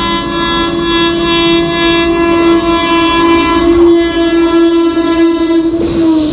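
Indian Railways WAP-4 electric locomotive's horn held in one long, loud, steady blast as the train passes, dropping slightly in pitch near the end as it goes by. The train's wheels rattle over the rail joints underneath.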